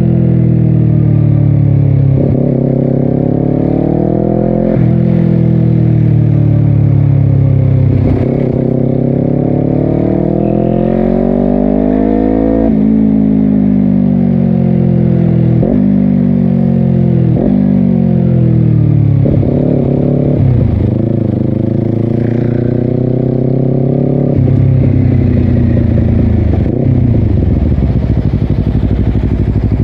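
Honda CBR250RR parallel-twin through a Yoshimura exhaust, accelerating hard through several quick upshifts, each cutting the revs sharply. About halfway it slows with the revs falling and jumping up at each downshift, then pulls away again with another upshift near the end.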